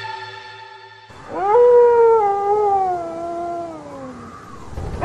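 A steady music drone fades out, and then one long howl rises quickly and slides slowly down over about three seconds. A second howl starts at the very end.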